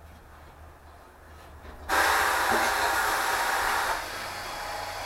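A loud, even hiss starts suddenly about two seconds in and lasts about two seconds, then falls to a quieter hiss, over a low steady hum.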